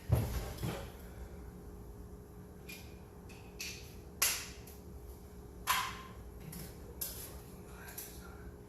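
Sheet-metal vent pipe on a gas water heater being taken apart by hand: two dull knocks at the start, then a string of sharp metallic clicks and clanks, some ringing briefly. The loudest clank comes a little past the middle.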